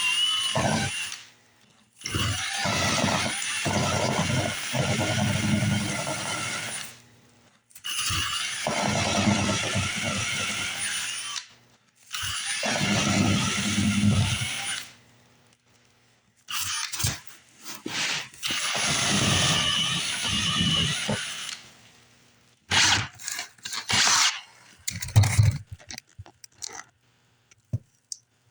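Power drill boring drain holes, running in several runs of a few seconds each with short pauses between, followed by a few short knocks and rattles near the end.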